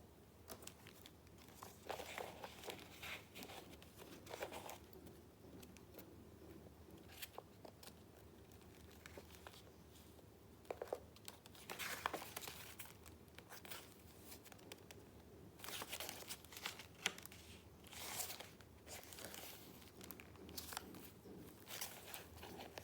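Paper being handled, rustling and crinkling in several short, faint bursts with quiet spells between: the sheets and pages of a handmade junk journal.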